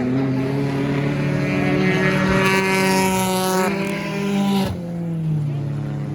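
Stock car engines running at race pace on an oval track, with one car running much louder for a couple of seconds in the middle, cutting off abruptly before the end.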